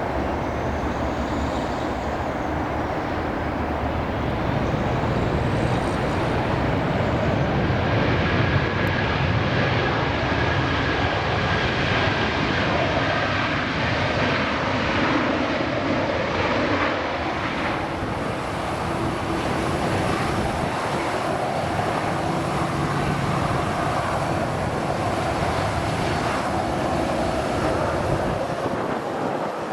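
Large jet airliner coming in to land: continuous jet engine noise with faint whining tones, swelling a little and easing off again.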